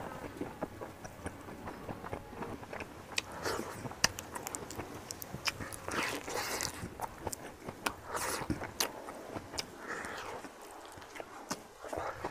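Close-up eating sounds: a person chewing food, with scattered crunches and many short, sharp mouth clicks.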